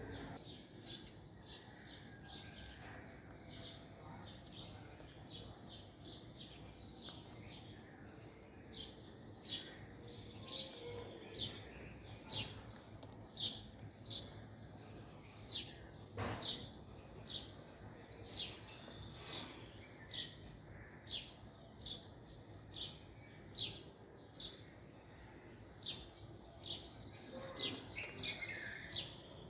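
Small birds chirping: a short high chirp repeated roughly once a second, with bursts of twittering now and then.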